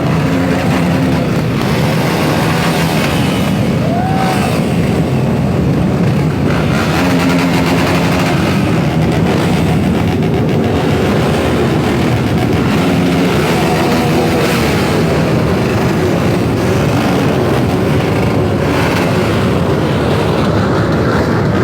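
Motocross dirt bike engine running loud and continuously, its pitch rising and falling as it revs up and eases off.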